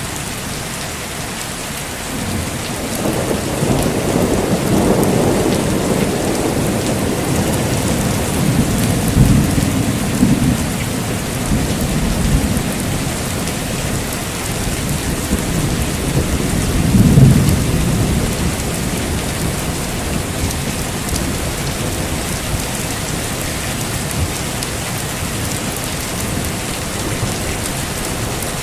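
Heavy, steady rain with thunder rumbling several times, the loudest roll about seventeen seconds in.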